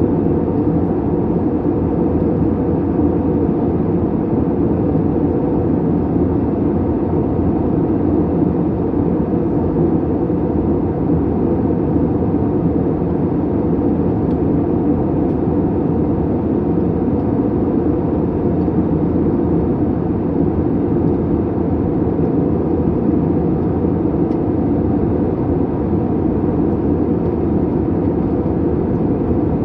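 Steady cabin noise inside an Airbus jet airliner in flight: an even, unbroken mix of engine and airflow noise.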